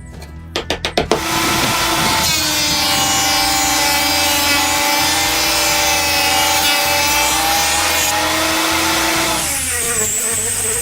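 A few sharp knocks, then a power tool runs steadily with a whine over a rasping noise, as when cutting wood. The whine falls away near the end.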